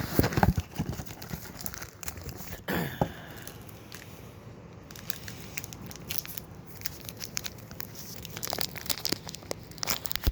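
Protein-bar packaging being handled and torn open: a long run of crinkling and tearing, loudest in the first second.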